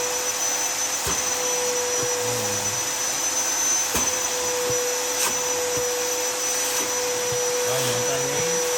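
Vacuum cleaner motor running steadily with a constant whine, held to a dented midrange speaker cone to suck it back out. Its suction is weak, which the users put down to a dirty filter.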